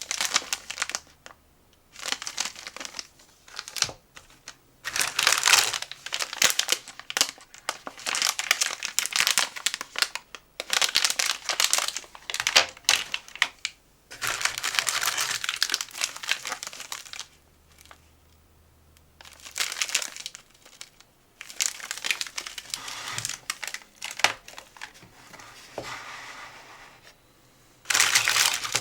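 Plastic snack packaging crinkling as it is handled, in repeated bursts lasting from a moment to several seconds, with short pauses between.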